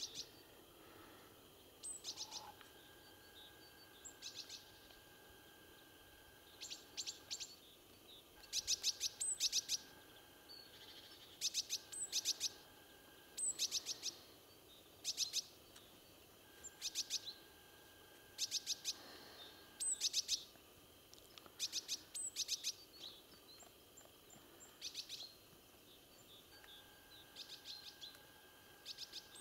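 Songbirds singing: short, rapid trilled phrases repeated every second or two, with a faint held whistle between them.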